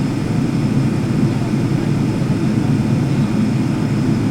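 Steady low rumble inside an airliner cabin while it taxis after landing, with the engines at idle and the air conditioning running, and a few faint steady whines above it.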